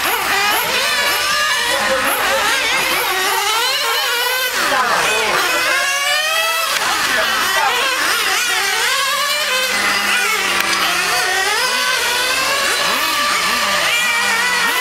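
Several small high-revving engines running at once, each pitch climbing and falling again every second or two and overlapping the others, like model cars being driven round a track. One of them is the Alpha engine on the RaZor under test.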